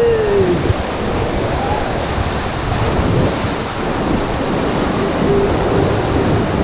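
Rushing whitewater of a mountain river around a raft, a steady loud roar, with wind buffeting the microphone. A drawn-out shout trails off and falls in pitch at the start.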